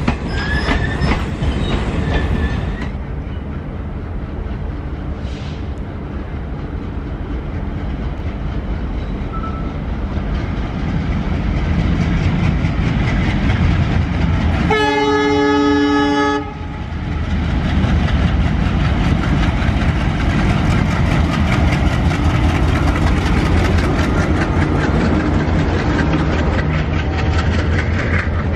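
Indian Railways passenger coaches rolling past with a steady rumble and clickety-clack of wheels on rail joints, with a little wheel squeal in the first few seconds. About halfway through, an approaching locomotive sounds one long, steady horn blast of about two seconds, and then the rolling noise grows louder as its coaches pass close by.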